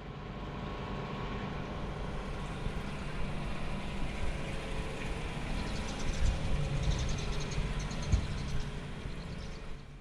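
Swimming pool heard underwater through a submerged action camera: a steady low hum under a wash of water noise, with a fine crackle and a few soft thumps in the second half.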